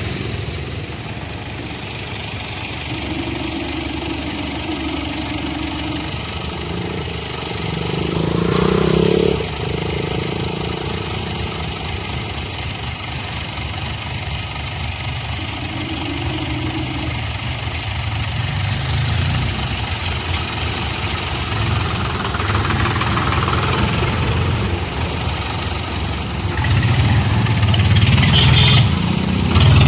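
Heavy engine running steadily, with a short whining tone a few seconds in and again midway, a louder swell about eight to nine seconds in, and the engine getting louder near the end.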